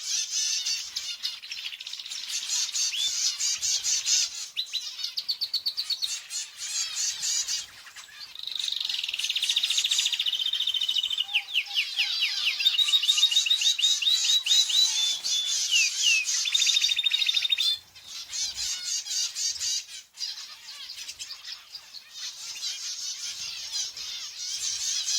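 Small pet birds chirping and singing without pause, with a long run of fast rapid-fire trills in the middle.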